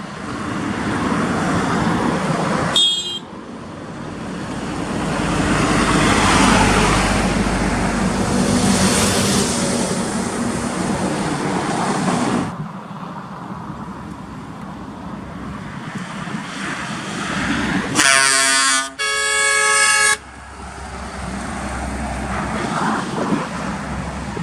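Heavy truck engines and road noise as trucks pass, swelling in the first half. Near the end a truck air horn sounds in two short blasts.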